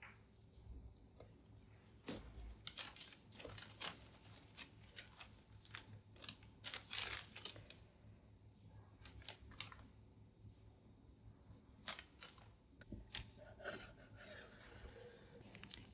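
Small close-up handling noises: a run of light clicks, taps and rustling, with some tearing or crinkling of paper or packaging.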